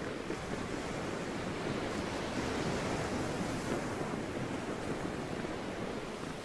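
Sea waves washing steadily, with some wind, swelling a little in the middle.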